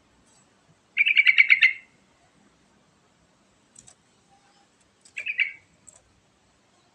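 Yellow-vented bulbul (trucukan) singing two short bubbly phrases of rapid notes: the first, under a second long, about a second in, and a shorter one about five seconds in.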